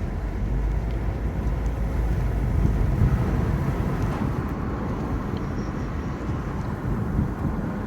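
Car in motion heard from inside the cabin: a steady low rumble of engine and tyres on the road, swelling slightly about a third of the way in.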